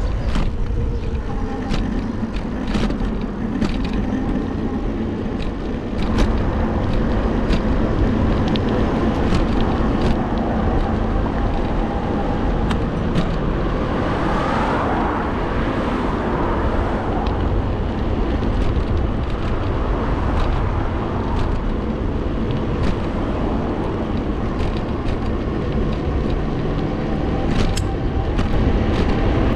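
Steady wind rumble and road noise on the camera's microphone of a moving e-bike ride, with scattered clicks. A vehicle swells past about halfway through.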